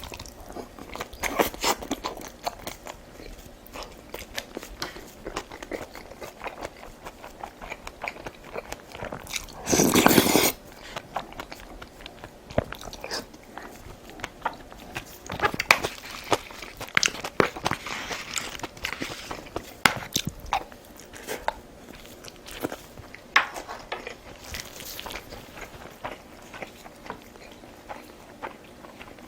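Close-miked eating: a person chewing and biting into food with crunches and wet mouth clicks, and one loud, noisy burst lasting about a second around ten seconds in.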